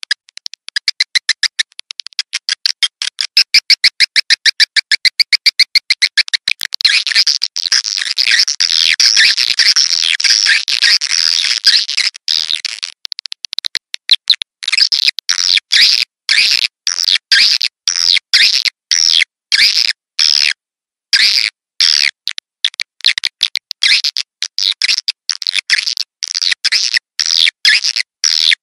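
Edible-nest swiftlets twittering: a rapid stream of high, dry chirps, the swiftlet lure call played to draw the birds into a nest house. It starts as quick evenly spaced chirps, thickens into a dense twitter, and in the second half comes in short runs cut off by abrupt gaps, as in an edited loop.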